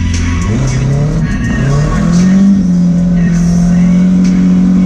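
Nissan KA24DE 2.4-litre inline-four heard from inside the car's cabin, revving up in steps over the first couple of seconds and then held at steady high revs.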